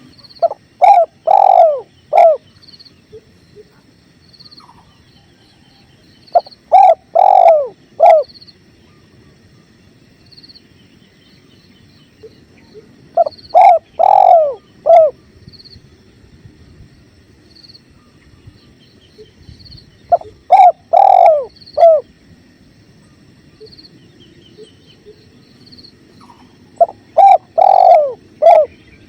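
Spotted dove (tekukur) cooing its song phrase five times, one phrase about every seven seconds: a few short coos followed by longer, falling notes. Under it runs a steady low rush of flowing river water, with faint high chirps.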